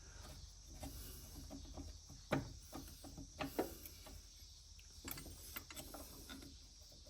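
Scattered light metallic clicks and knocks of small mower tensioner parts being handled and fitted, with two louder knocks a few seconds in.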